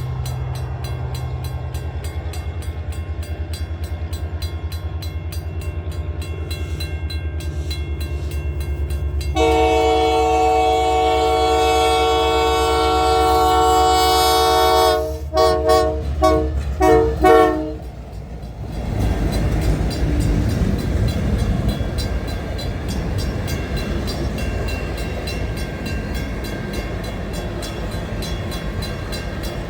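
CPKC Holiday Train's lead diesel locomotive approaching with its engine running. It then sounds its multi-chime air horn in one long blast, about five seconds, followed by a quick run of short blasts, and the train rolls past with steady wheel-on-rail noise.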